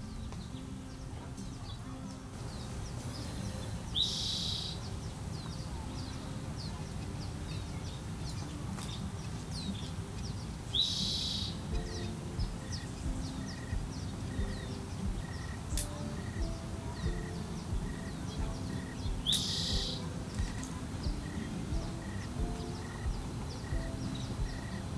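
A bird calling again and again, one short loud call every seven or eight seconds, over a steady outdoor background. From about halfway, soft music with an even pulse and low stepping notes runs underneath.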